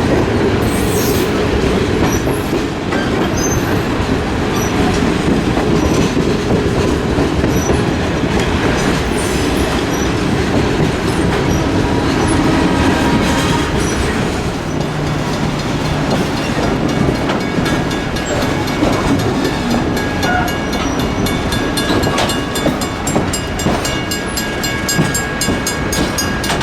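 Train running along the track, its wheels clicking over the rail joints in a steady rhythm that grows more distinct in the second half.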